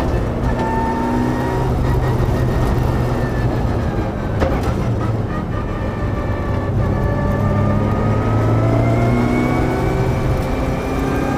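Onboard sound of a Mitsubishi Lancer Evolution track car's turbocharged four-cylinder engine under hard driving, heard inside the stripped cabin over road and drivetrain rumble. The engine note drops for a few seconds, with a sharp knock about four and a half seconds in, then climbs steadily as the car accelerates.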